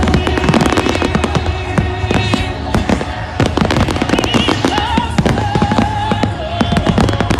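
Fireworks display: rapid, dense bangs and crackles of fireworks bursting, over loud music with a melody playing through the show's sound system.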